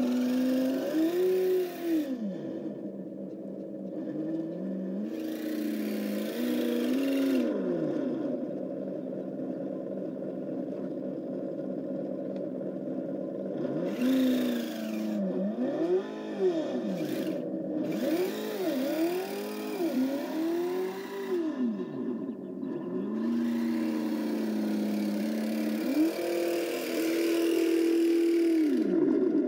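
Simulated engine sound from an ESS sound module on a 1/12-scale Kyosho Blizzard DX RC snowcat, rising and falling in pitch again and again as the model is driven, several quick rev-ups in the middle and a longer one near the end. A hissing noise comes and goes with it.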